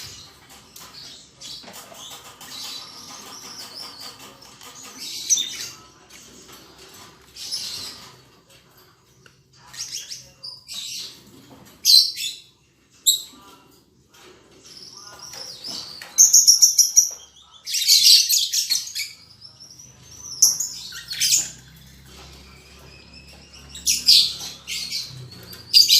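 Lovebirds chirping in repeated sharp, high-pitched bursts, with the loudest flurries of calls in the middle and near the end.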